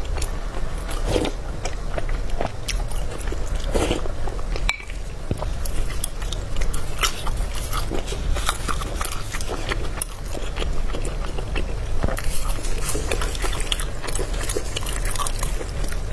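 Close-miked mouth sounds of a person eating: chewing and biting, with many small wet clicks and light crunches throughout.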